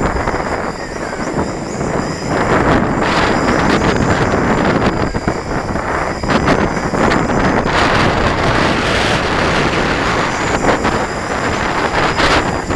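Heavy gusting wind blowing across the microphone, a loud noisy rush that swells and drops with the gusts.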